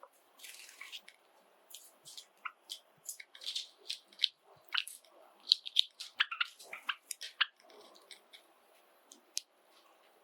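Java sparrows making short, sharp chip calls and clicks, scattered irregularly and thickest in the middle stretch.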